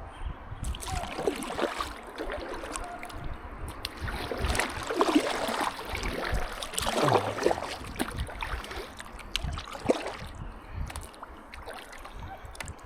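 Kayak paddle dipping and splashing in river water, a few swishing strokes a couple of seconds apart, over a steady wash of water.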